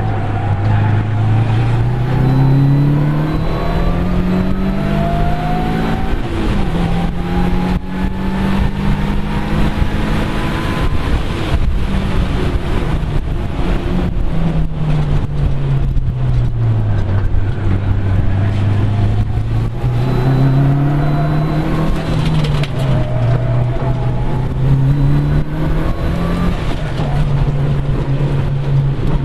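Mitsubishi Lancer Evolution 6.5's turbocharged 2.0-litre four-cylinder engine pulling hard at racing speed: its note climbs in the first few seconds and holds high, drops about halfway through as the car slows for a corner, then rises again, with steady road and wind noise under it.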